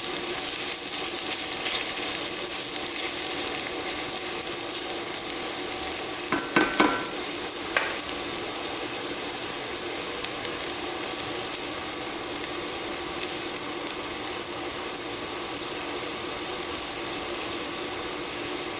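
Vegetables sizzling steadily as they soften in an enameled cast iron skillet on an induction burner, with a few sharp clinks between about six and eight seconds in.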